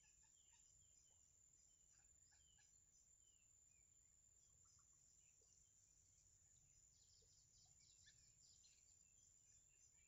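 Very faint scattered bird chirps, busiest about seven to nine seconds in, over a thin steady high tone; near silence otherwise.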